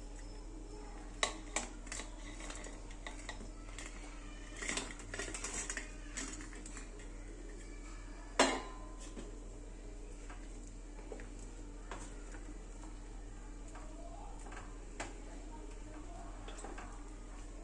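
Cooking utensils clinking and knocking against pots and dishes in scattered taps, with a busier stretch about five seconds in and one sharp knock about eight seconds in.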